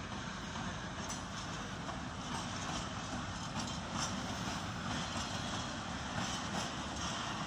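A freight train of tank wagons rolling past behind a diesel locomotive: a steady rumble, with the wheels clattering over rail joints about once a second.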